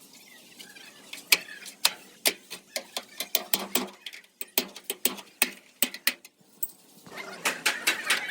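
Hammer tapping on sheet metal in a quick, irregular run of sharp knocks, a few a second, as a body panel is worked straight.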